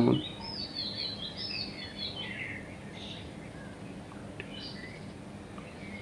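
A bird chirping: a quick run of short chirps, each bending up and down in pitch, over the first couple of seconds, then a few fainter chirps, over a low steady background hiss.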